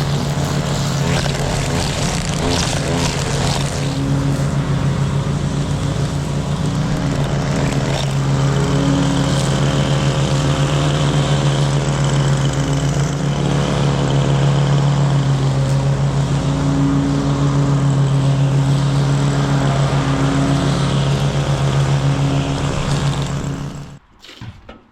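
Riding mower's engine running steadily at a constant speed, then stopping abruptly near the end.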